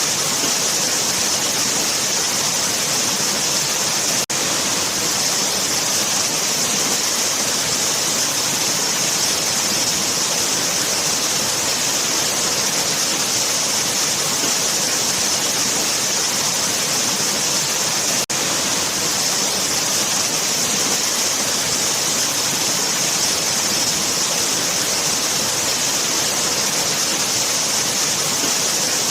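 Waterfall: a steady rush of falling water with a strong high hiss, briefly cutting out for an instant about four seconds in and again about eighteen seconds in.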